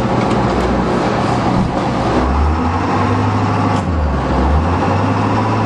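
International 7.3-litre V8 turbo-diesel of a school bus running under throttle in forward gear, its pitch rising and falling a few times as the driver tries to pull the bus out of a snowdrift it is stuck in.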